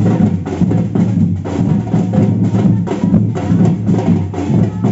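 Samba percussion band playing live: bass drums and sharper drums hammering out a fast, driving samba rhythm.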